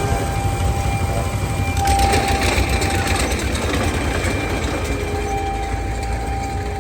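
Engine-driven machinery running steadily: a continuous low rumble with a faint steady whine that comes and goes.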